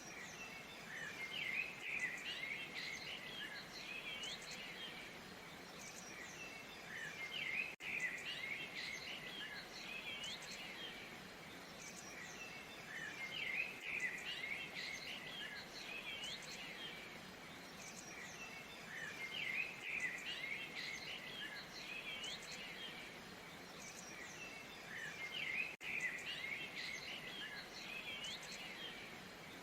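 A steady rush of falling water under small birds chirping and twittering in bursts every few seconds. The sound cuts out for an instant twice.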